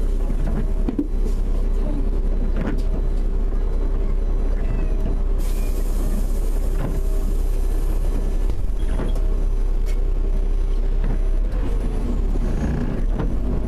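Car engine idling with a steady low rumble and a constant hum, heard from inside the stopped car, with a few light knocks.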